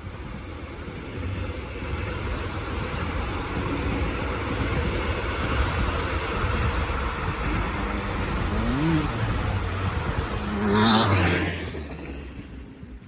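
KTM EXC 250 two-stroke dirt bike with an Akrapovic exhaust running, growing steadily louder to its loudest about eleven seconds in, then fading quickly.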